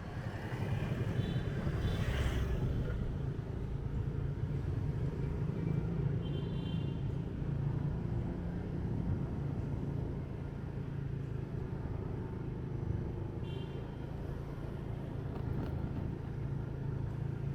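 Motorbike riding through city traffic, its engine running steadily, with short horn toots about a second in, around six seconds in and again near fourteen seconds.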